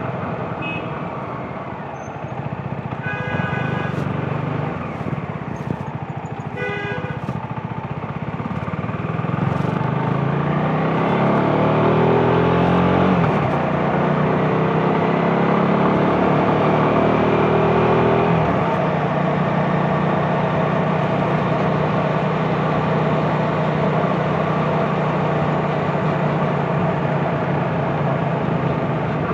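CFMoto 250NK's single-cylinder engine accelerating through traffic: it revs up twice in the middle, dropping at each gear change, then runs steadily. A vehicle horn toots in short beeps twice in the first several seconds.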